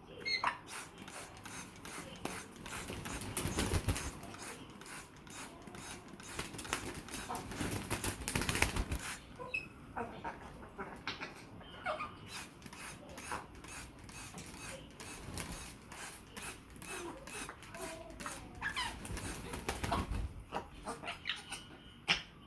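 African grey parrots bathing, splashing and flapping their wet wings in a dense patter of flutters, busiest a few seconds in, with occasional short calls.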